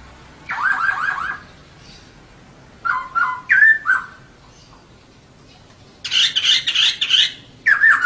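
Female poksay (laughingthrush) calling in short bursts of quick repeated notes, with a harsher chattering burst about six seconds in.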